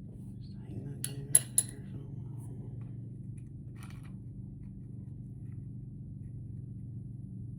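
Metal hand tools clinking: three sharp clicks in quick succession about a second in and a fainter one near four seconds, over a steady low hum.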